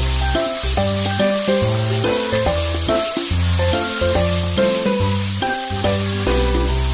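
Pieces of pork sizzling as they fry in oil in a pan: a steady hiss. Background music with a bass line and melody plays over it.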